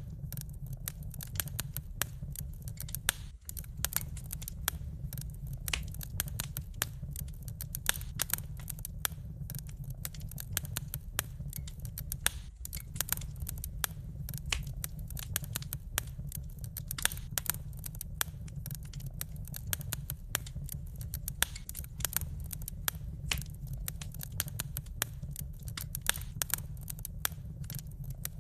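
Wood fire burning in a fireplace: dense, irregular crackling and popping of burning logs over a steady low rumble of the flames.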